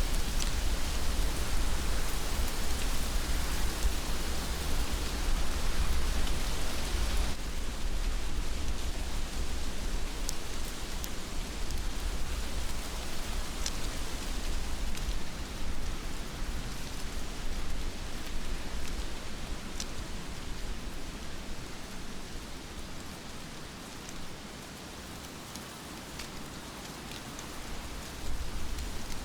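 Heavy rain falling steadily, with scattered single drops ticking and a low rumble underneath. The hiss thins about seven seconds in and the rain eases somewhat before picking up again near the end.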